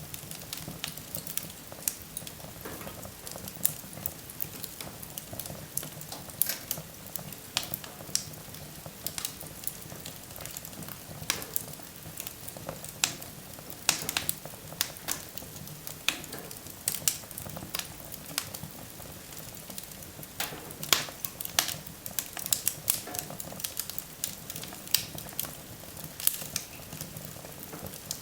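Wood fire in a fireplace crackling, with frequent irregular sharp pops and snaps over a low steady hiss.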